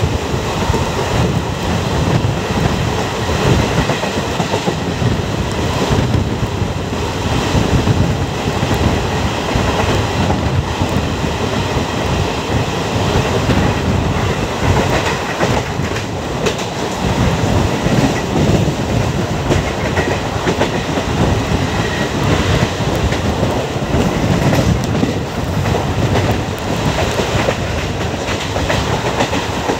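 Passenger train running at speed, heard from an open coach doorway: a steady, loud rumble of the coach wheels on the rails.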